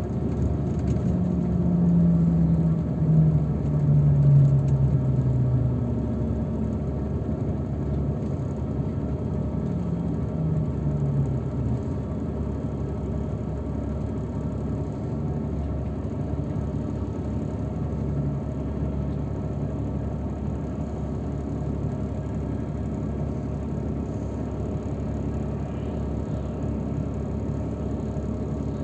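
Engine and road noise of a moving shuttle vehicle heard from inside while riding; the engine note falls twice in the first dozen seconds as it slows or shifts, then runs steadily.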